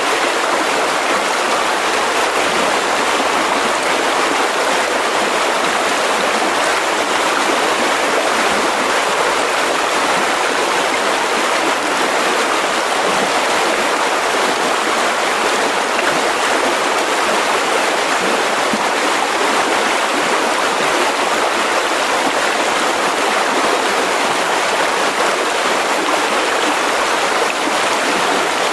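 Mountain river rushing steadily over rocks, a continuous even roar of water.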